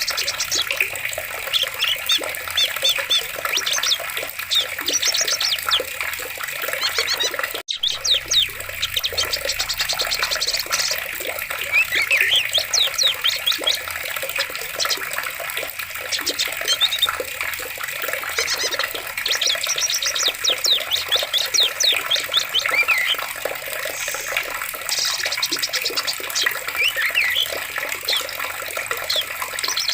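Forest ambience of running water, a steady rush, with many birds chirping and trilling over it. The sound cuts out for an instant about eight seconds in.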